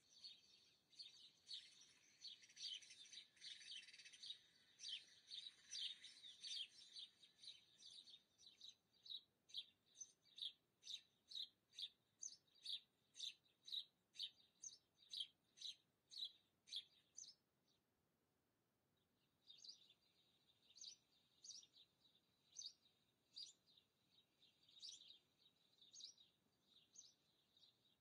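Small birds chirping: a dense tangle of calls, then a steady string of short, high chirps about two a second, a pause of about two seconds, and more chirping.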